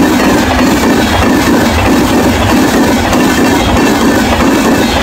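Tejas Rajdhani express passenger train running past at about 130 km/h: a loud, steady rush and rumble of wheels on the rails.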